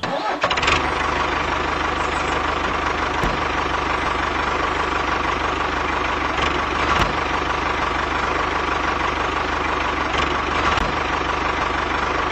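A motor or engine running steadily at a constant pitch and level, with a faint steady whine.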